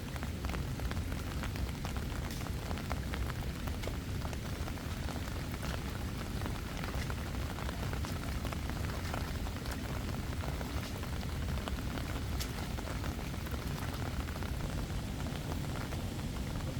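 Steady rain falling, with many separate raindrop ticks over an even hiss of water.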